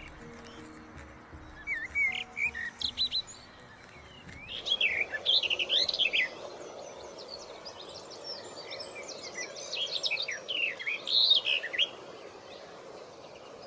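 Several birds singing and calling in quick, sweeping chirps, with busier bursts of song about five seconds in and again near the end. Faint background music lies under the first few seconds.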